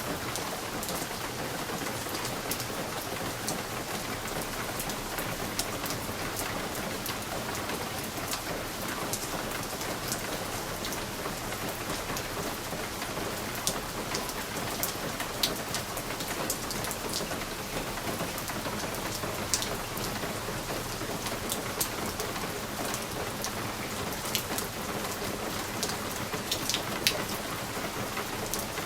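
Steady rain falling on a window: an even hiss of rainfall with scattered individual drops ticking sharply against the glass.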